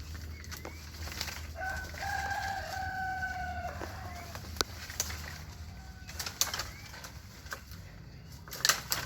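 A bird's long call, held for about two seconds and dropping slightly at the end, with a few short rising chirps around it. Scattered sharp snaps and rustles of twigs and brush run through it, loudest in a quick cluster near the end.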